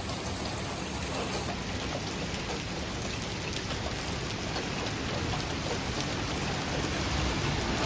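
Rain mixed with hail falling on pavement and the porch: a steady hiss with many scattered light ticks, growing a little louder near the end.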